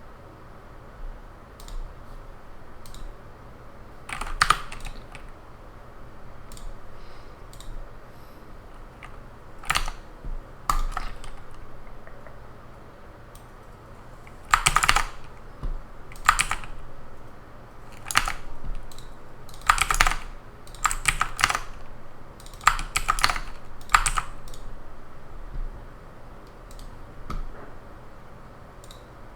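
Computer keyboard typing in short, irregular bursts of keystrokes separated by pauses, over a faint steady low hum.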